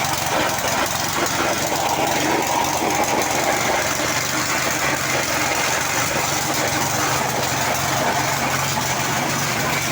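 Small engine of a Mikasa engine-driven concrete vibrator running at a steady speed, with an even hum and a buzzing rattle over it.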